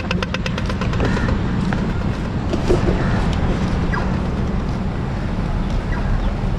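Steady road traffic noise: the low rumble of motor vehicles running along the road.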